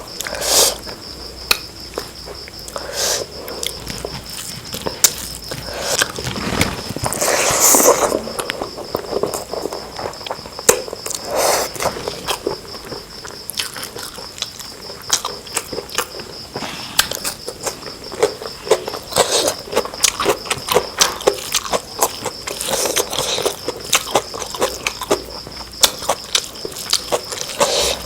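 Close-miked eating of chicken biryani and curry: chewing and mouth smacking, with many short wet clicks and a few louder smacks. A faint steady high-pitched whine sits underneath.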